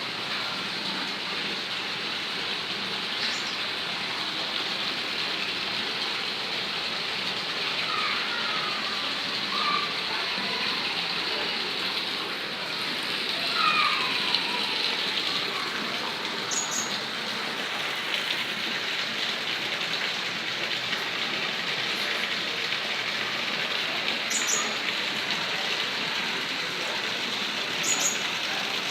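Small birds chirping and calling now and then over a steady hiss, with a few short high chirps in the second half.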